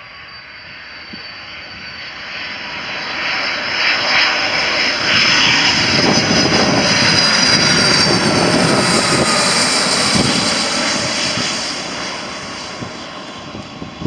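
Boeing 757 jet engines as the airliner passes: the engine noise builds over several seconds, holds loud, then fades, with a high whine that slides down in pitch as it goes by.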